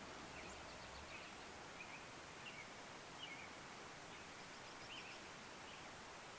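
Faint chirps of small songbirds, short high notes every second or so, over a steady background hiss.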